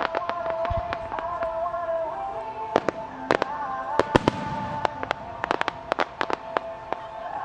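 Starmine fireworks bursting in a rapid string of sharp bangs and crackles, coming in flurries with the loudest cracks a little past the middle, over music playing throughout.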